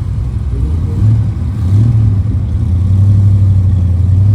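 Low, steady running of a car engine, with wind buffeting the microphone.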